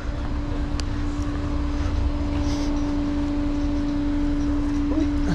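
Tow truck's engine running at idle: a low rumble with a steady hum held at one pitch, and a faint click about a second in.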